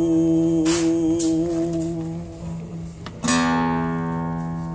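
Acoustic guitar playing between sung lines: a held chord and note fade away over the first two seconds, then a new chord is strummed a little past three seconds and left to ring.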